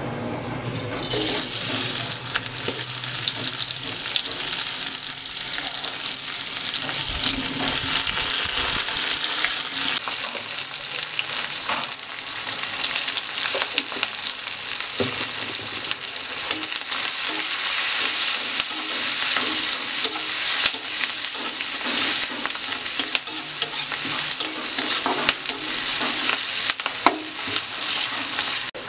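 Sliced onion and garlic frying in hot oil in a wok. A steady sizzle jumps up about a second in and holds, with frequent scrapes and clinks as the pieces are stirred against the pan.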